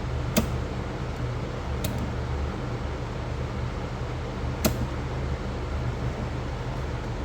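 Electric fan running steadily, with three short sharp clicks: one just after the start, one about two seconds in and a louder one near five seconds.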